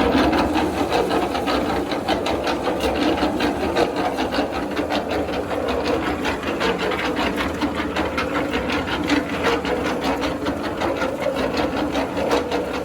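Restored concrete mixer gearbox running steadily under power, with a fast, even clatter.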